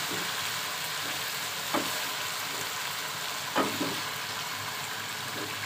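Chicken curry frying and sizzling in a pot while raw potato chunks are dropped in. There are two short soft knocks, about two and three and a half seconds in, as pieces go in.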